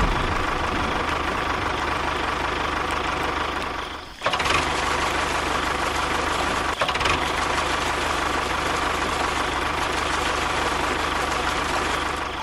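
A small motor running steadily. It cuts out for a moment about four seconds in and then runs on again.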